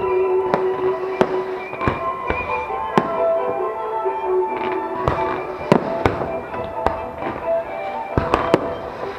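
Aerial fireworks bursting in a string of sharp, irregularly spaced bangs, about a dozen in all, with a quick cluster near the end. Music with sustained notes plays alongside.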